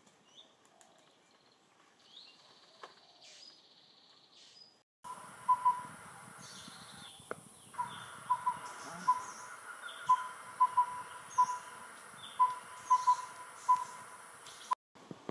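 Forest birdsong: a bird calling short, clear, low whistled notes in ones, twos and threes, over a steady high insect drone, with other birds chirping higher up. For the first five seconds the sound is quieter, with only a few high chirps and one held high note, then the scene changes abruptly to the louder calling.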